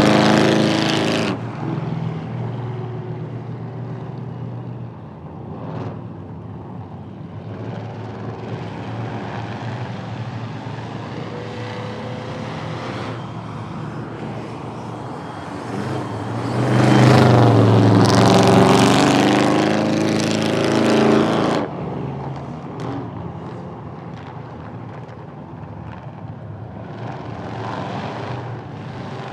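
Drag-racing car engines. One is loud at the start and cuts off about a second in. After a quieter stretch of distant engine sound, another car runs hard at full throttle for about five seconds, its pitch shifting, then stops suddenly.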